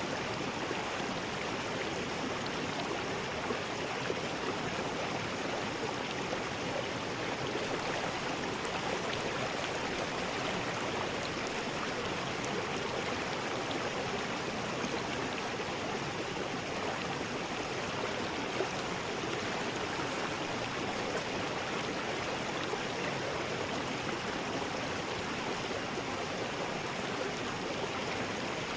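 River rapids: water rushing steadily over rocks, a continuous even roar with no change in level.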